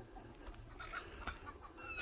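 Faint bird calls: short notes repeating at uneven intervals, with a falling chirp near the end.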